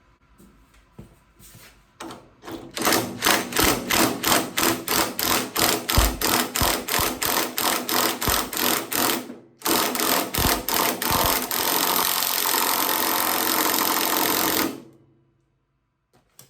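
Power tool, likely an impact wrench, hammering loudly at about six or seven blows a second for some seven seconds, then after a short break running in a steady continuous rattle for about five seconds before stopping, working the steering wheel off its heated hub.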